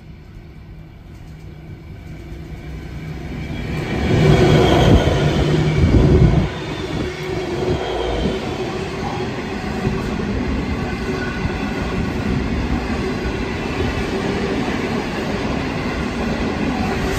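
Diesel freight locomotive approaching and passing close by, growing louder over the first few seconds and loudest about four to six seconds in, followed by a steady rumble of container wagons rolling past on the rails.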